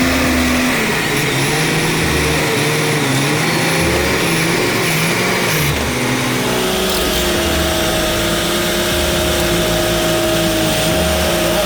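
Heavy truck engine running under load, its pitch dropping about a second in and shifting again around six seconds in.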